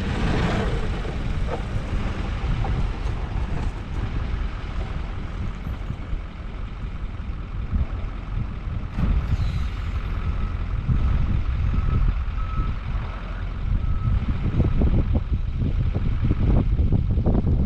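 Snow-plow truck engine running steadily, with a reversing alarm beeping for a few seconds around the middle as the truck backs up.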